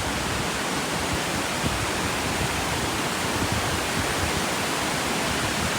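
Vickery Creek's water rushing: a loud, steady rush with no letup.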